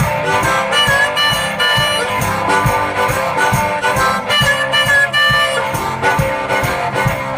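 One-man band playing a blues instrumental: harmonica lead over guitar, with a steady beat from foot-played percussion.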